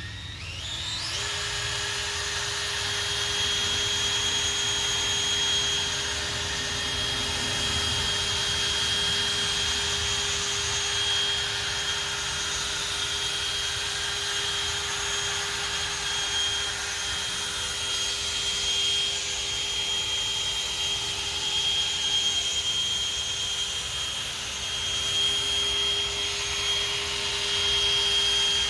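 Handheld electric polishing tool spinning up about a second in, then running steadily with a constant whine as it buffs polish on a plastic headlight lens.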